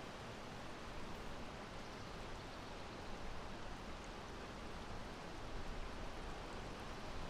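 Steady wind blowing as an even, unbroken rush of air with no gusts.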